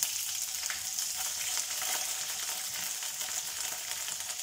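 Sliced onions, dry red chillies and bay leaves sizzling in hot oil in a kadai: a steady hiss with scattered small crackles. A spatula stirs them near the end.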